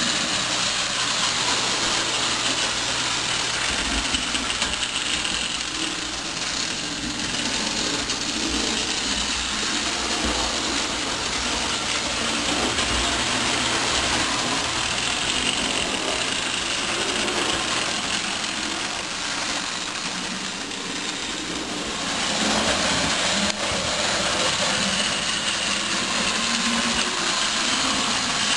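Toy electric model train running round its track: a steady motor whir with the wheels rumbling on the rails, growing a little fainter and then louder again as it circles the layout.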